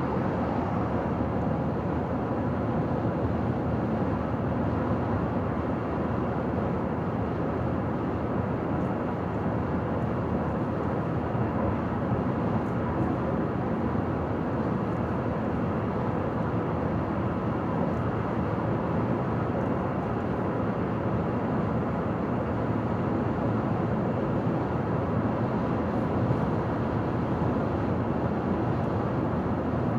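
Steady road noise of a car driving on a highway: tyre and engine noise holding an even level, with no changes in speed.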